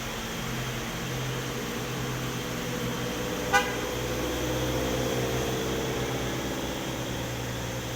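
Truck engine running steadily, with one short horn toot about three and a half seconds in; the engine grows a little louder for a few seconds after the toot.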